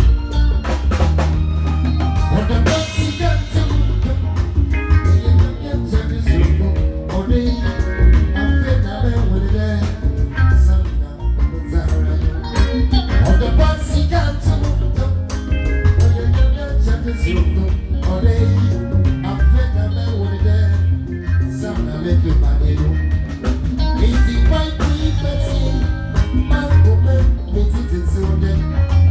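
A band playing an upbeat number at a sound check, with a drum kit and heavy bass.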